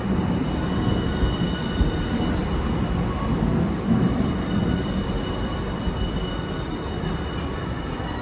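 Hiroden streetcar running at the station platform: a steady rumble with thin, steady high tones above it.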